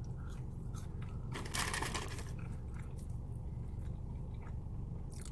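A person biting and chewing fries close to the microphone, with one louder crunchy bite about a second and a half in, over a steady low hum.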